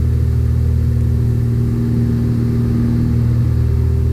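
Cessna 182F's six-cylinder Continental O-470 engine and propeller droning steadily at climb power, about 23 inches manifold pressure and 2400 RPM, heard inside the cockpit.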